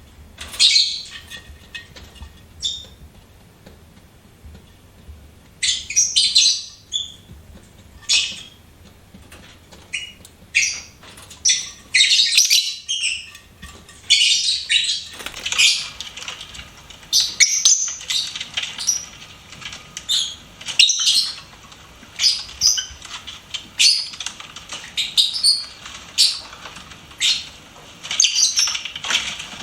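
Lovebirds chirping: short, shrill high-pitched chirps in quick bursts, sparse for the first few seconds and then coming almost continuously.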